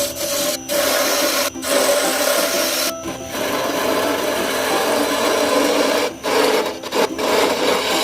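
Hollowing tool cutting into the inside of a spinning wooden goblet blank on a lathe: a steady rasping scrape of the tool on the wood, broken several times for a moment when the tool comes off the cut.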